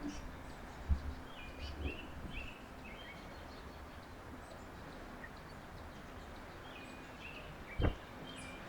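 Small songbirds giving short chirping calls in two loose clusters, over a steady outdoor hiss. Two dull thumps, one about a second in and one near the end, are the loudest sounds.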